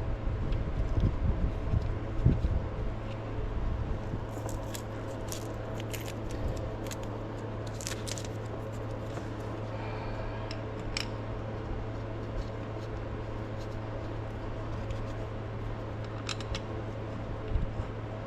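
Scattered sharp metallic clicks and clinks of hand tools on metal, over a steady low hum, with heavier knocks and rumbling in the first couple of seconds.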